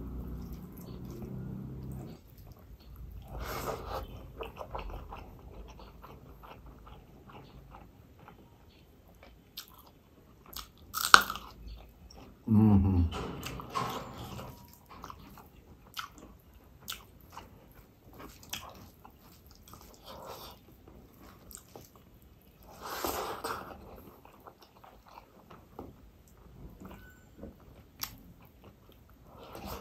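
Close-up eating sounds: a man chewing mouthfuls of rice eaten by hand, with wet mouth clicks and smacks scattered through. A sharp click about 11 seconds in is the loudest moment, and a longer spell of chewing follows it.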